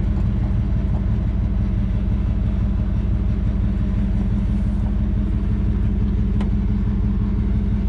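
Pickup truck engine idling steadily while the truck is eased into position under a fifth-wheel hitch, with one sharp click about six and a half seconds in.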